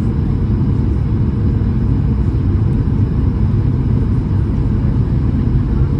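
Boeing 737-800 on its arrival: a steady, loud low rumble of engines and airflow, with no rise or fall in level.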